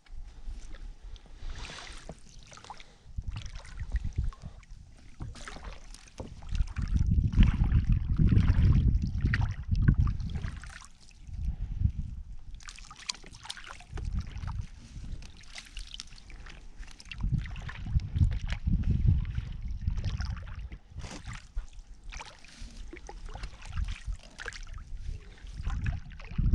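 Water splashing and knocking around a small boat on the water, with gusts of wind rumbling on the microphone in surges.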